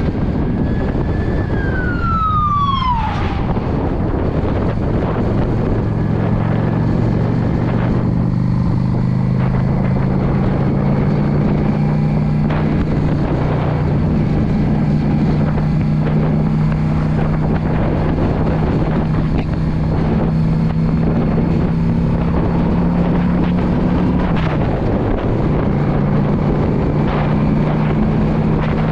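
Yamaha V Star 650's air-cooled V-twin engine running at a steady cruising speed, with wind rushing over the microphone. The engine note dips and picks back up about 24 seconds in, as with a throttle lift or gear change. Near the start, a high tone slides down in pitch over about two seconds.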